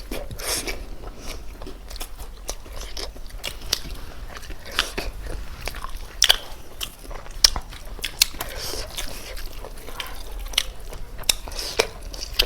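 Close-up eating sounds: biting and chewing cooked chicken, with irregular sharp crunching clicks throughout.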